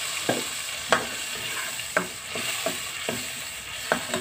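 Blended shallot-and-garlic spice paste sizzling in hot oil in a nonstick wok, stirred with a metal ladle that knocks and scrapes against the pan about eight times, most sharply about one and two seconds in.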